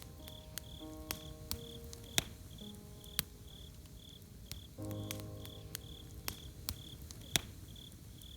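Campfire crackling with scattered sharp pops, the loudest about two and three seconds in, over crickets chirping steadily about twice a second. Soft sustained musical chords come in about a second in and again near five seconds.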